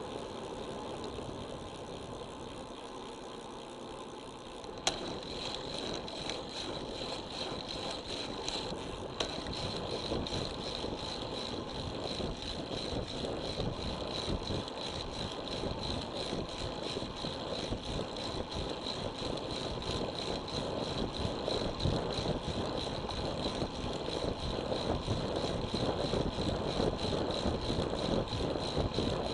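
Wind and road noise on a handlebar- or body-mounted action camera while riding a road bicycle, a steady rushing that builds gradually louder. A click about five seconds in brings in a thin, steady high whine, and another click comes a few seconds later.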